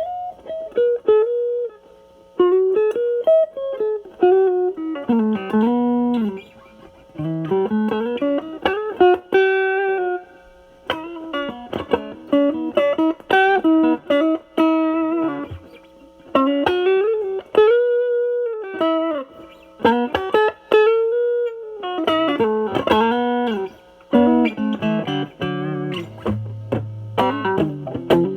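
Semi-hollow electric guitar played through a NOBELS ODR-1 overdrive pedal (Bass Cut mod) with the drive knob at about 9, into a Marshall Valvestate amp on its clean channel, giving a light overdriven tone. It plays single-note lead lines with string bends and held notes, with lower notes and chords near the end.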